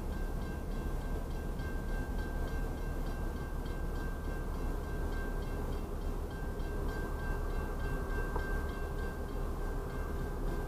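Double-stack intermodal freight train moving slowly backward through a grade crossing, heard from inside a car: a steady low rumble with faint, evenly spaced ticks.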